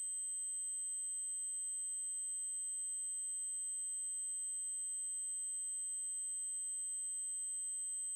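A steady, very high-pitched electronic tone: an 8192 Hz triangle wave held constant, with faint higher overtones.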